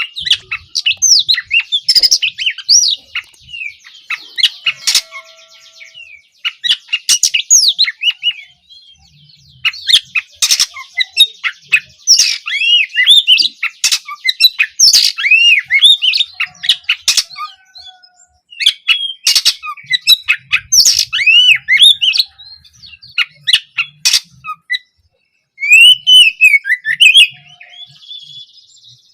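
Oriental magpie-robin (kacer) singing: rapid, varied phrases of slurred whistles, sharp clicks and buzzy rattles, in bursts broken by brief pauses.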